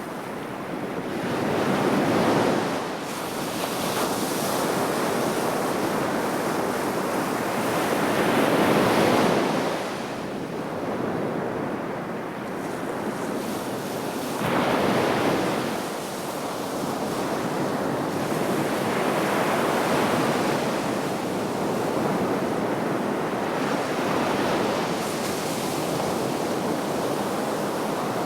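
Sea waves breaking and washing onto the shore, rising and falling in about five surges a few seconds apart.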